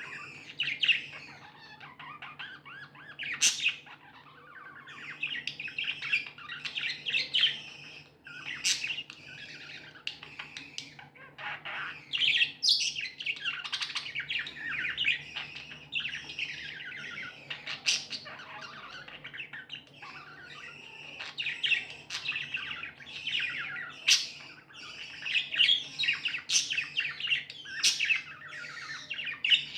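Budgerigars chirping and chattering without a break, with many sharp, high calls scattered through the warble.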